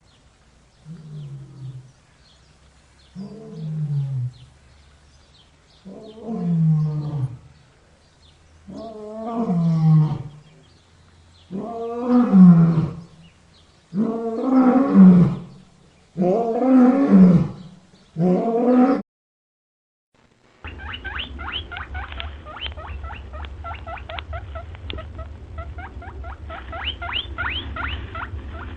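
A big cat, most likely a lion, roaring in a bout: seven deep, falling roars about two and a half seconds apart, each louder than the last. About two-thirds of the way in they stop, and a different sound follows: a steady low rumble with rapid, high chirping over it.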